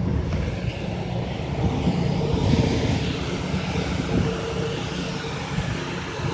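Large vehicle's engine running with a steady drone, over street traffic noise.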